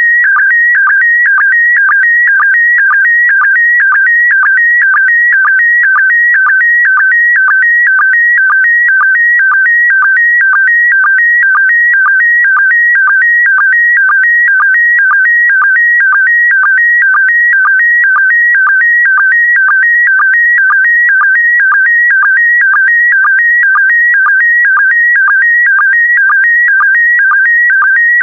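Slow-scan TV signal in PD120 mode being transmitted: a loud, warbling electronic whine that shifts rapidly in pitch as it carries the picture line by line. A short regular pulse about twice a second marks each new pair of image lines.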